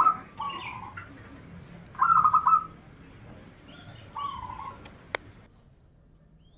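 Zebra dove (perkutut) cooing: a loud burst of rapid staccato coos at the start and again about two seconds in, each followed by a softer, lower trill. A single sharp click just after five seconds, then only faint background.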